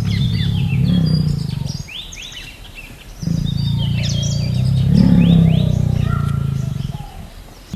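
Small birds chirping in quick, high, sweeping notes throughout, over two long, loud, low-pitched calls from a larger animal: one at the start and a longer one from about three seconds in.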